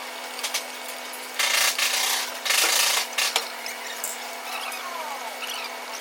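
Two short bursts of rasping tool noise on car bodywork, each under a second, with scattered light clicks over a steady workshop hum.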